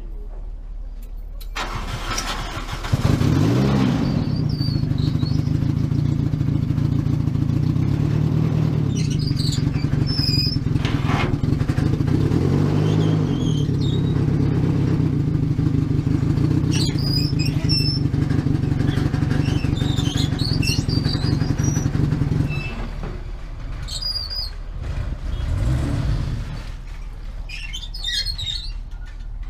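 Boat engine starting up about three seconds in and running steadily at one pitch, then dropping to a lower, quieter running note about three-quarters of the way through.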